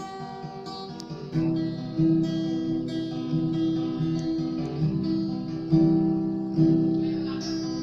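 Solo acoustic guitar playing an instrumental passage of ringing chords and picked notes, with firmer strums at a few points, the strongest about a second and a half in and near six seconds.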